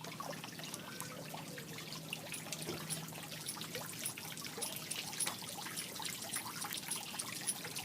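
Water trickling steadily, with many faint ticks and drips.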